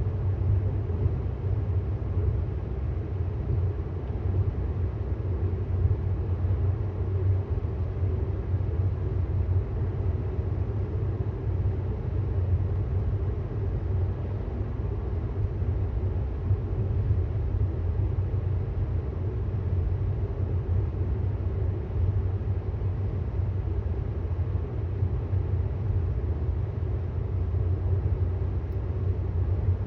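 Steady road and tyre noise inside the cabin of a moving 2018 Tesla Model S 75D, a low even rumble with no engine note.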